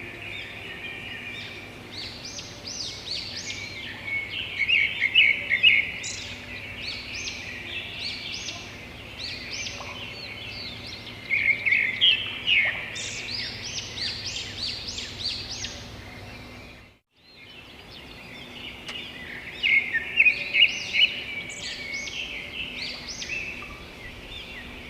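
A chorus of small birds chirping and twittering, with many short high calls overlapping in busy bursts every few seconds over a steady background. The sound cuts out completely for a moment about two-thirds of the way through, then the chirping resumes.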